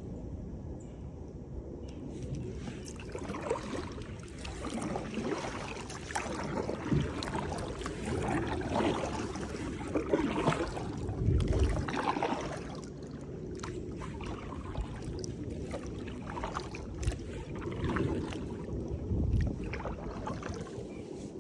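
Kayak paddling: paddle blades dipping and splashing in the water in irregular strokes, with two low thumps, about halfway through and near the end.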